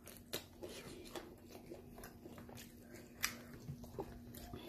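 Faint mouth sounds of a person chewing fast food, with scattered small wet clicks and smacks.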